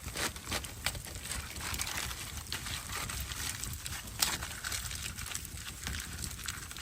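Wood fire crackling: irregular sharp snaps and pops, a few a second, over a low steady rumble.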